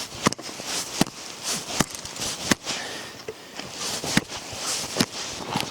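Steps crunching through snow at a steady walking pace, a sharp crunch about every three quarters of a second.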